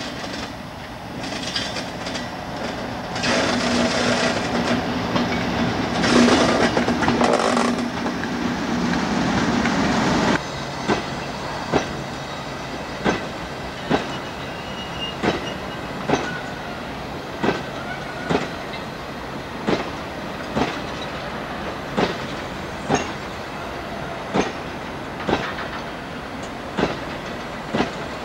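British Rail Class 58 diesel-electric locomotive running under power as it passes at the head of a coal train, its engine a loud steady hum that drops away abruptly about ten seconds in. After that come the rhythmic wheel clicks of the hopper wagons rolling over rail joints, about one click a second.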